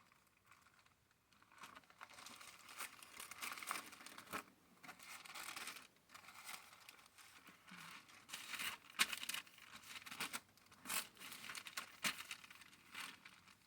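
Paper rustling and crinkling in irregular handling movements, with sharp snaps now and then, as of thin pages being leafed through.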